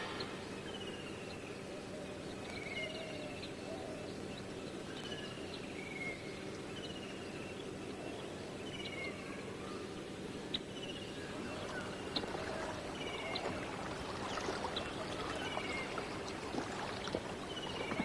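Night forest ambience: an animal call of two short falling notes repeats about every two seconds over a faint steady background, with scattered faint ticks that grow more frequent toward the end.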